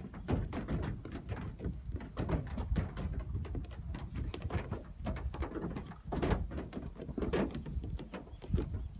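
Nigerian Dwarf goat kids' hooves tapping and knocking on the sheet-metal body of an old van as they climb and jump about. The taps come irregularly, several a second.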